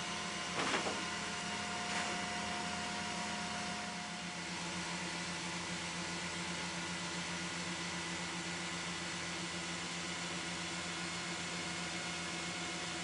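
Cetus 3D printer running: a steady hum of stepper motors and cooling fan with several held tones, which change pitch about four seconds in. Two faint clicks come in the first two seconds.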